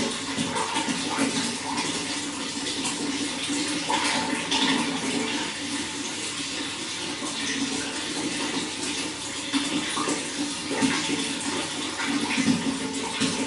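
Running water flowing and splashing continuously, with small irregular splashes over an even rush.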